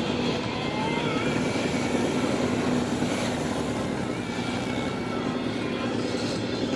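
Large-displacement police motorcycle engines running steadily, their pitch wavering slightly as the riders work the throttle.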